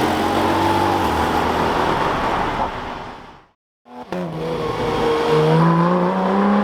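A sports car engine running loudly as the car drives off, fading out about three and a half seconds in. After a short gap, a car engine accelerates, its note climbing steadily.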